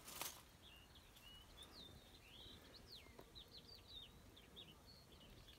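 Faint birdsong: a scattered run of short chirps and quick whistled glides.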